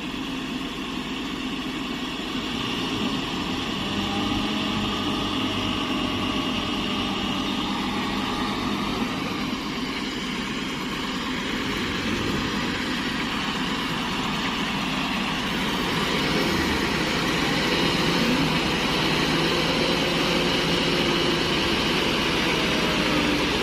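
Heavy diesel truck engine running at a low, steady speed, getting a little louder from about two-thirds of the way in, with slow rises and falls in pitch as it is revved.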